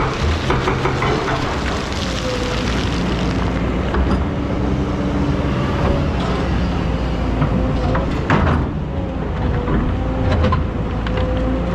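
Excavator's diesel engine running under work, with a steady whine setting in about two seconds in and two sharp knocks later on.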